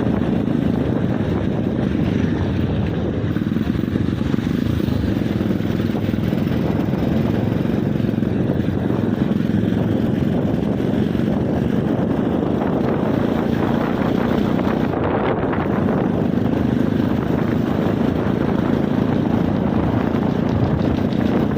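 Motorcycle engine running at a steady speed while riding, a continuous even hum with no revving changes.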